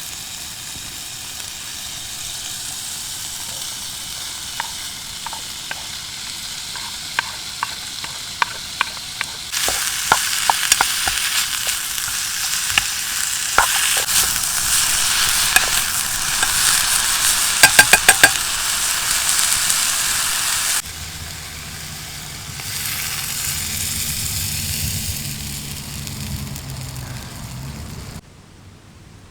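Food sizzling in a frying pan, with scattered light clicks and taps of a utensil stirring it. The sizzle gets louder about a third of the way in, drops back about two-thirds of the way in, and cuts off sharply near the end.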